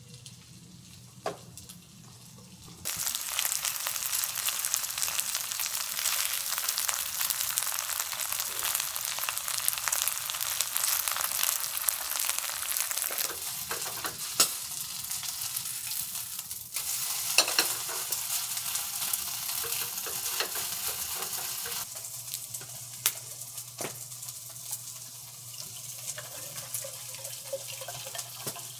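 Food frying on a hot pan. A loud sizzle starts suddenly about three seconds in as the food goes onto the hot surface, with occasional clicks of a utensil, and eases to a quieter sizzle after about twenty seconds.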